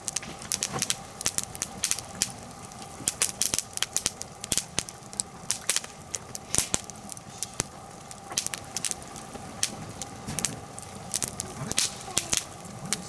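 Wood campfire of hinoki cypress and oak logs crackling, with many sharp, irregular pops and snaps over a low steady hiss of burning.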